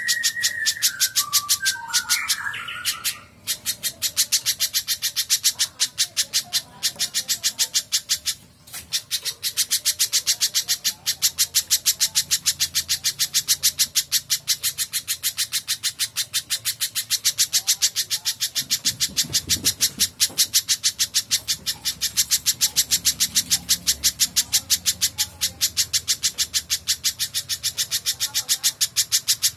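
Spiderhunter (pijantung) calling non-stop: a fast, even run of sharp, high chips, several a second. A short falling, wavering whistled phrase sits in the first few seconds.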